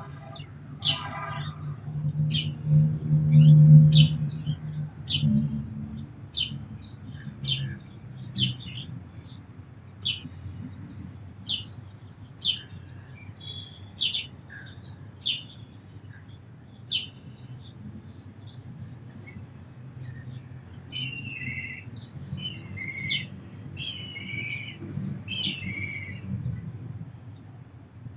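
House sparrows chirping: short, sharp chirps about once a second, with a few lower, falling calls in the last third. A low hum swells and fades about three to four seconds in.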